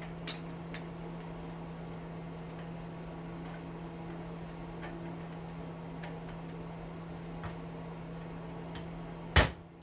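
Faint, scattered light clicks of small metal tools being handled over a steady low hum, then one sharp knock near the end.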